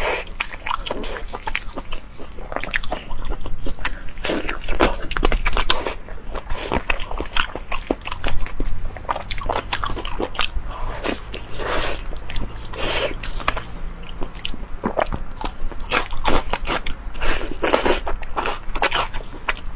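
Close-miked wet chewing and lip-smacking of fatty braised meat: a dense, irregular run of sticky clicks and smacks.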